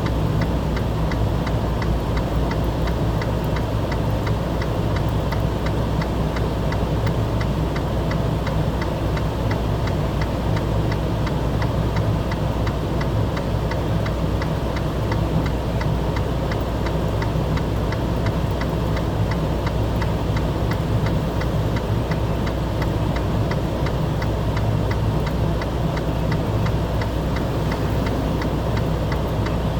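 An engine running steadily, with a fast, even ticking over a low, constant rumble.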